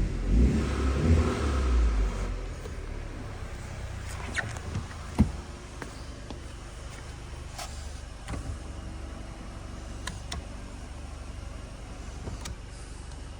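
The Chevy Cruze's 1.4-litre turbocharged four-cylinder engine running. It is loud for the first couple of seconds as it settles from a rev, then idles steadily, with a few sharp clicks over it.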